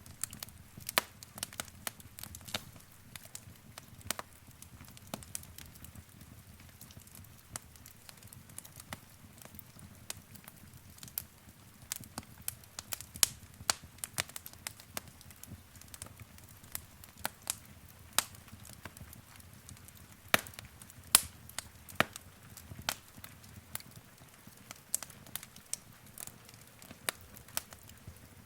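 Wood fire crackling in a fireplace: irregular sharp pops and snaps, a few louder ones, over a soft low rumble of flame.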